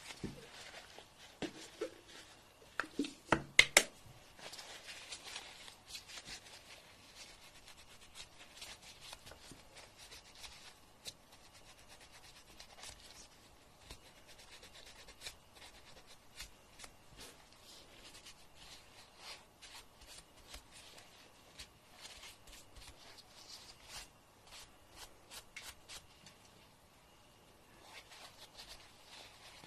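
Fingernails being filed: soft, scratchy rubbing strokes and small ticks, with a few sharper, louder clicks about three to four seconds in.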